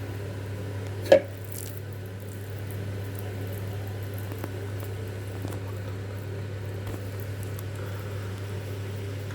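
Hands squeezing and rolling minced mutton mixture into meatballs, soft squishing, over a steady low hum, with one sharp tap about a second in.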